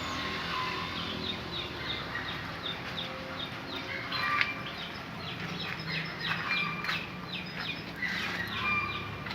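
A canary singing and practising its song: rapid runs of short repeated chirps, about four or five a second, broken by a few brief held whistles.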